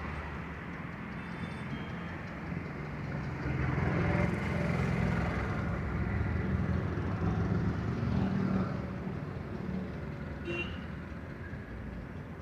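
Tractor engine running steadily under load. It grows louder about three and a half seconds in, then eases back near the end.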